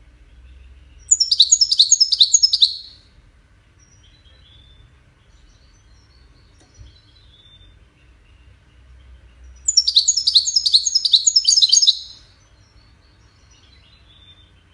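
European goldfinch song in the 'widani' style: two loud bursts of rapid, repeated descending notes, each about two seconds long and the second about nine seconds after the first. Faint short chirps come between the bursts.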